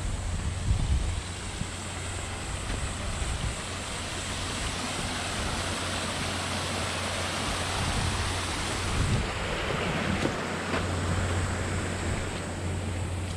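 Steady rushing outdoor noise with wind buffeting the microphone in low gusts about a second in and again around nine to ten seconds in.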